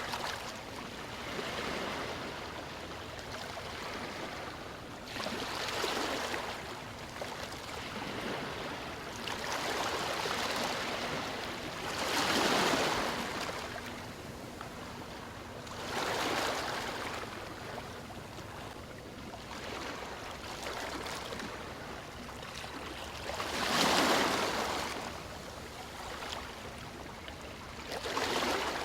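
Ocean waves washing in, a steady hiss of water that swells and fades every few seconds, with two larger breakers about twelve and twenty-four seconds in.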